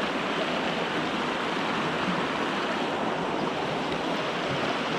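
Mountain stream water rushing, a steady even hiss.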